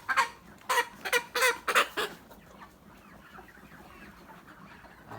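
A flock of young layer pullets: about five loud, short squawks in the first two seconds, then a quieter, steady background of many birds clucking and chirping.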